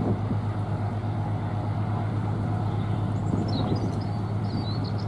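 A steady low engine drone with outdoor noise and a little wind on the microphone, and a few faint high chirps near the end.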